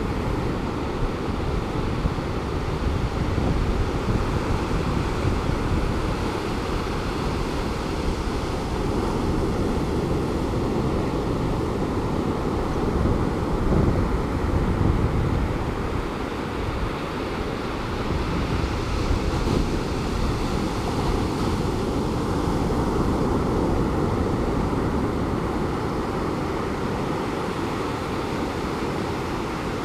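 Pacific Ocean surf breaking and washing up a beach: a steady rush of waves that grows a little louder now and then as bigger sets come in.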